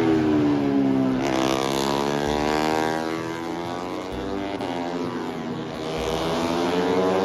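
Racing motorcycles passing at speed, their engine notes dropping in pitch as each goes by: one passes about a second in, closely followed by another, and a further bike's note rises again near the end.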